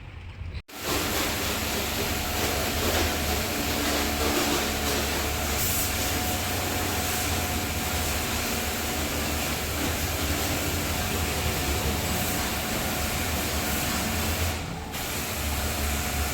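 Volkswagen Polo engine running steadily, heard close up as an even mechanical hiss with a low hum underneath. It starts abruptly about a second in and briefly dips near the end.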